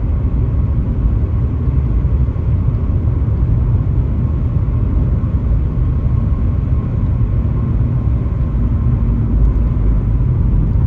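A car driving on a highway: a steady low rumble of road and engine noise, unbroken throughout.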